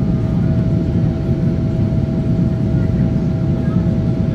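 Steady cabin noise inside a Boeing 777-300ER in flight: a deep, even rumble of its GE90 engines and the airflow, with a steady hum tone above it.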